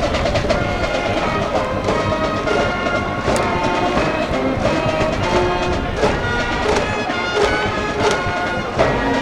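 School brass band cheering section playing a brass melody over steady drum beats.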